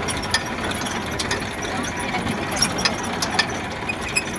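Tractor engine running, with irregular metallic clicks and clatter over it.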